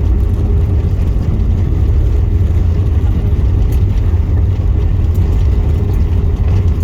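Steady low rumble of an Airbus A321 heard from inside the cabin, its engines and airframe noise running evenly with a faint steady hum on top.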